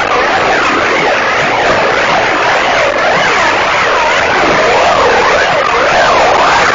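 A loud, dense wall of noise with many overlapping whines swooping up and down, continuous and without a break.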